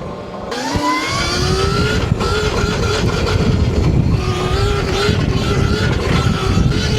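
Stomp Haywire electric dirt bike accelerating: the motor's whine rises in pitch for a second or two, then holds fairly steady as the bike cruises, over heavy wind rumble on the microphone.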